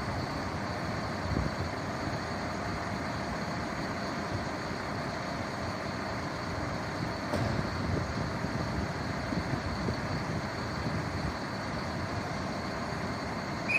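Steady mechanical rumble of a running vehicle engine, with a faint steady whine above it.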